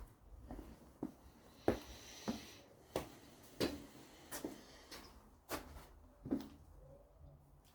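Footsteps: a series of light knocks, roughly three every two seconds, somewhat uneven.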